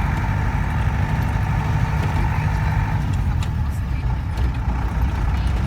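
A motor vehicle running steadily, with a continuous low engine and road rumble and a faint steady hum that fades about three seconds in.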